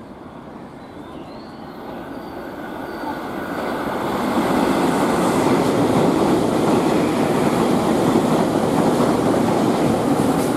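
Tobu Railway train running through the station on the passing track without stopping. The rumble of its wheels on the rails swells as it approaches, then stays at its loudest as the cars go by close at hand. A faint wheel squeal is heard in the first few seconds as it comes off the curve.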